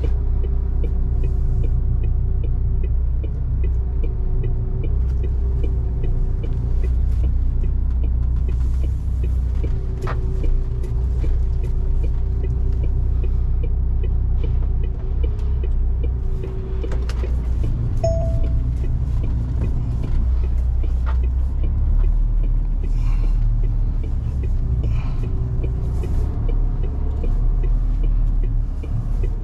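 MAN TGS 470 truck's straight-six diesel engine running steadily under way, a deep continuous drone; about two-thirds of the way through its note drops lower.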